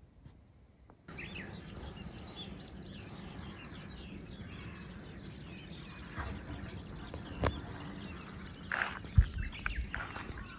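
Many small birds chirping over a steady outdoor background, starting abruptly about a second in. There is a sharp click a little past the middle and a few knocks near the end.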